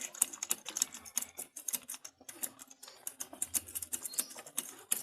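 Rapid, irregular light clicking and tapping of small parts being handled, with a few faint bird chirps near the end.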